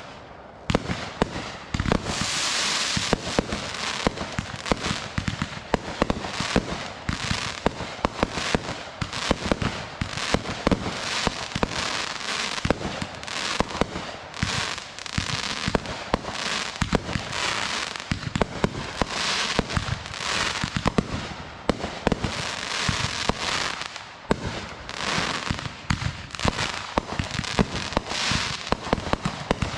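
Consumer fireworks going off without a break: dense crackling and popping with sharp bangs all through, swelling in waves every second or two.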